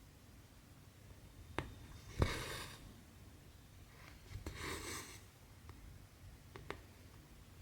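Cross-stitch needle and cotton thread being pulled through stamped fabric: two short swishes of thread drawing through the cloth, each starting with a sharp click as the needle pops through, with a few lighter ticks of the needle between.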